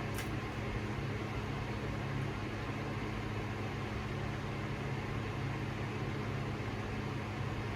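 Harbor Breeze Cheshire ceiling fan running on low speed: a steady motor hum with an even rush of air.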